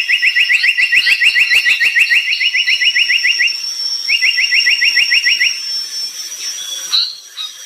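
Brown tali pocong songbird singing in full voice: a fast trill of short rising notes, about nine a second, one long run then a shorter one after a brief pause. A steady thin high tone runs underneath, with a few higher chirps near the end.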